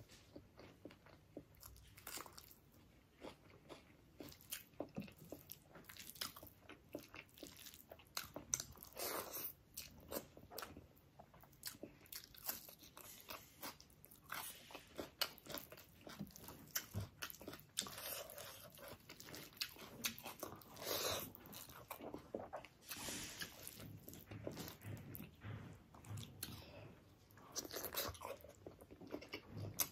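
Close-miked eating: wet chewing, smacking and crunchy bites, irregular and continuous, as mouthfuls of rice with egg curry, boiled egg and raw onion are eaten by hand.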